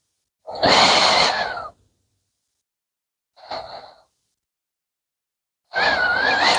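A person breathing out heavily through a respirator three times, each breath a wheezy rush of air with a faint wavering whistle.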